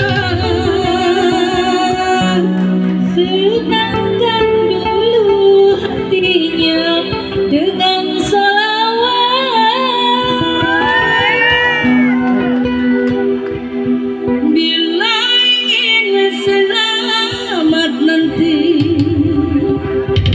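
A song: a female voice sings a slow melody with wavering, held notes over backing music.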